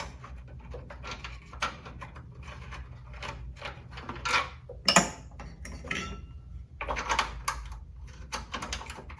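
Irregular metallic clinks and knocks of bolts and hand tools being handled during radiator and fan shroud installation, with a loud clank about five seconds in followed by a short ring of metal.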